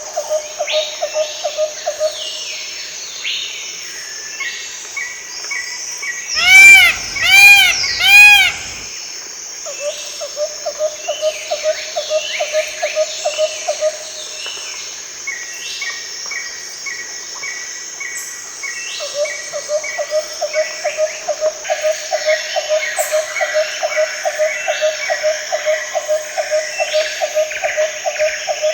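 Tropical forest ambience: a steady high insect drone under many birds chirping and calling. A low call repeats several times a second in three long runs. Three very loud arching calls come in quick succession about six to eight seconds in.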